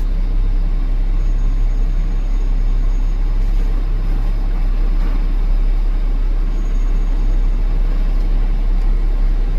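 Off-road 4x4 vehicle's engine running steadily, a constant low-pitched sound with no change in pace.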